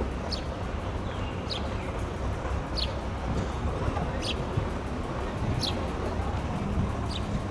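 A bird's short, high, falling chirp repeated about six times, roughly every second and a half, over a steady low rumble of outdoor background noise.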